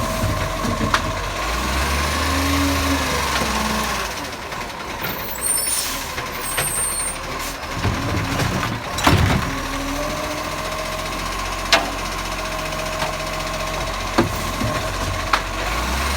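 Recycling garbage truck with a Bucher body at work: the engine runs and the hydraulics whine steadily, with a spell of hissing air midway and sharp clunks every few seconds.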